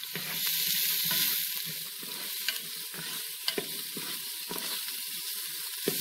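Chopped onion and garlic sizzling in hot coconut oil while being stirred around the pan, with a few sharp clicks of the spatula against the pan.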